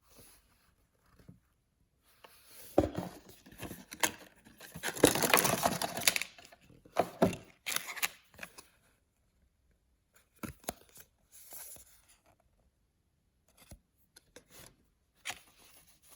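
Packaging being torn open and crinkled by hand, with a loud stretch of tearing a few seconds in, then scattered softer rustles.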